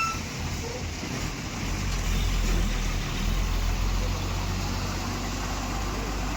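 Tractor engine running steadily, growing louder about a second and a half in and holding there.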